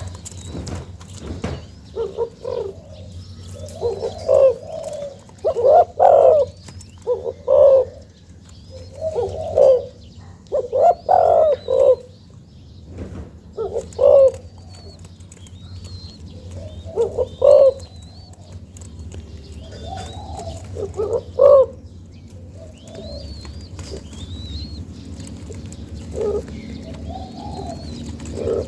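A young spotted dove cooing in a series of short repeated phrases, with a gap of a few seconds before another phrase near the end. Small birds chirp faintly in the background.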